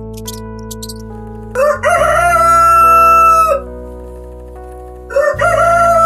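A rooster crowing twice, two long crows about three and a half seconds apart, over background music.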